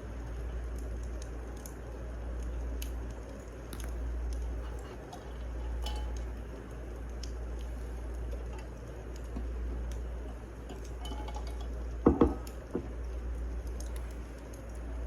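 Wood fire crackling, with scattered small pops over a low rumble that swells and fades every couple of seconds. A sharp knock about twelve seconds in, followed by a smaller one, is the loudest sound.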